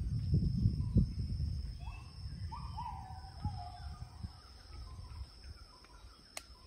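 Forest birds calling: a short run of whistled notes, some level and some falling, about two to four seconds in, over a steady high-pitched insect drone. Low rumbling and a few knocks in the first two seconds.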